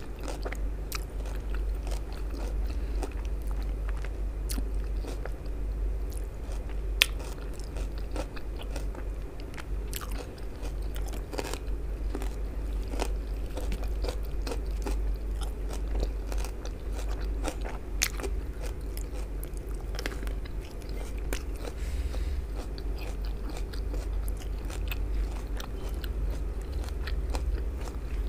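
Close-miked chewing and crunching of food, with many small crisp mouth clicks scattered throughout and one sharper click about seven seconds in, over a steady low hum.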